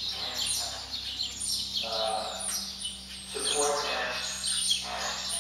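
Small birds chirping over and over in quick high notes, with an indistinct person's voice speaking twice beneath them.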